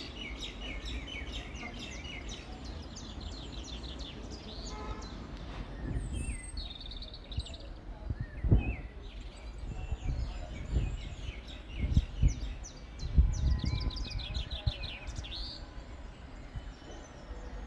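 Birds calling: rapid trilled series of short high notes, repeated again and again, with a few low thuds partway through.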